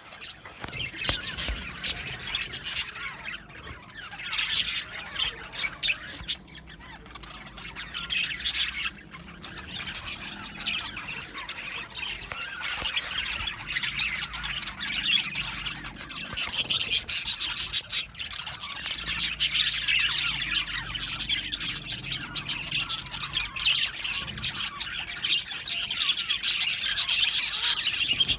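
A flock of budgerigars chattering, chirping and squawking continuously, many birds at once, growing busier and louder in the second half.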